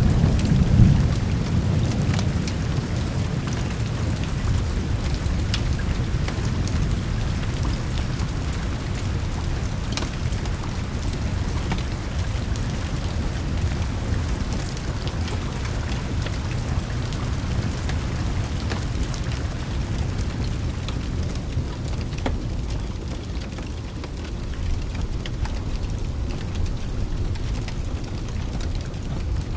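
Steady rain with a low roll of thunder dying away in the first second or two, and scattered sharp crackles from a fireplace.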